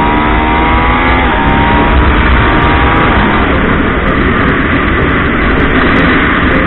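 Yamaha MT-09's three-cylinder engine pulling hard under full throttle, its pitch rising over the first second or so, then mixing into a heavy rush of wind noise as the bike runs at speed.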